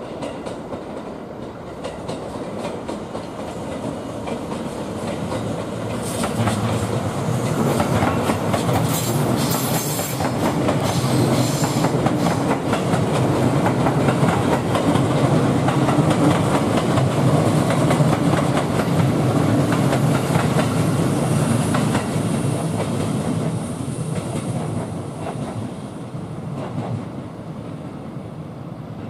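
A JR East 651 series 1000-number electric train runs past, its wheels clacking over rail joints and points. It grows louder from about six seconds in, peaks near the middle and fades away as the train moves off.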